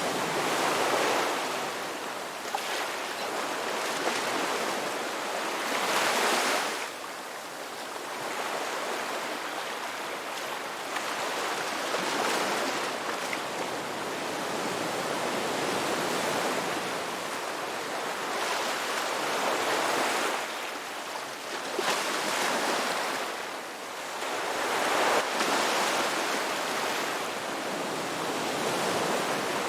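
Ocean waves breaking on a beach: a continuous wash of surf that swells with a breaking wave every several seconds and eases back between them.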